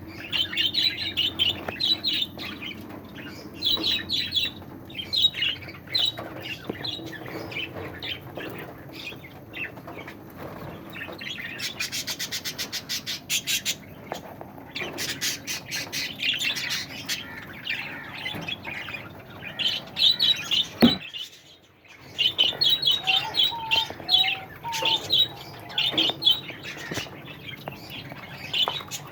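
A mixed flock of small cage birds in a home aviary chirping and squawking continuously, with bursts of fast chattering and a short break a little past two-thirds of the way through.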